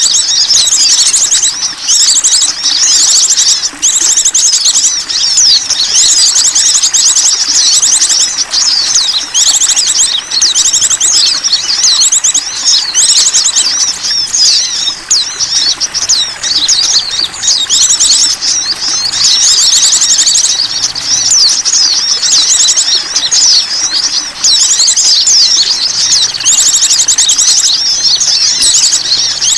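Many small songbirds chirping and trilling rapidly in overlapping high-pitched calls, without a break. It is a bird-luring call (suara pikat) for drawing in small wild birds.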